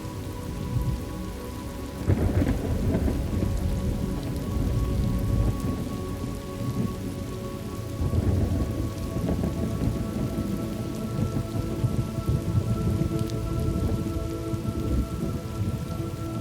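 Thunderstorm ambience: steady rain with low rolls of thunder, swelling about two seconds in and again about eight seconds in.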